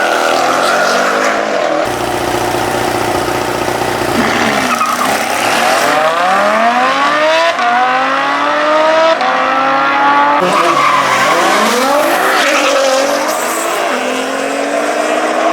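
High-powered street cars accelerating flat out down a drag strip: engines revving up in repeated rising sweeps through the gears, with abrupt changes between runs.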